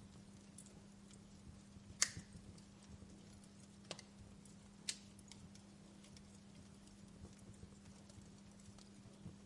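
Wood fire crackling faintly, with a few sharp pops, the loudest about two seconds in and two more near four and five seconds, over a steady low hum.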